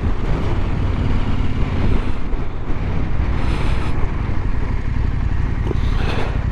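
Husqvarna Norden 901's parallel-twin engine running steadily while riding, with wind rushing over the microphone.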